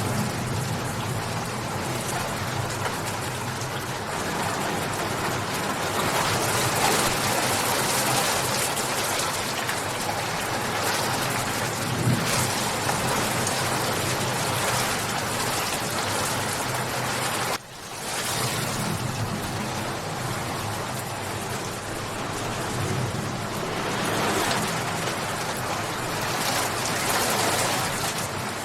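Steady, heavy rain falling in a continuous dense patter. The sound drops out briefly about two-thirds of the way through, then returns.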